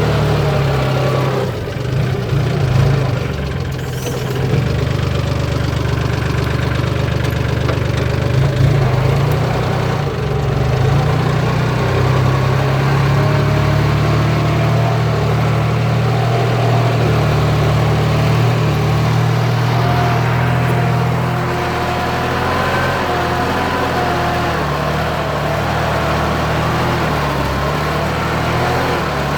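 Kubota tractor's diesel engine running steadily while plowing a wet rice field, its pitch and load shifting a little along the way.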